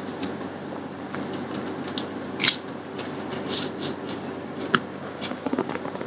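Mouth crunching and chewing raw cucumber: a sharp crunch about two and a half seconds in, then a few smaller crisp clicks, over a steady low hum.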